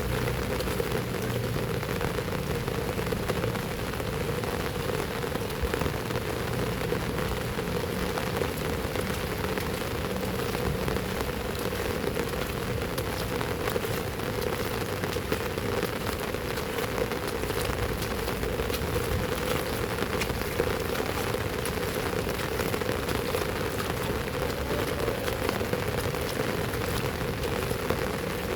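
Heavy rain falling steadily, with many individual drops ticking on hard surfaces.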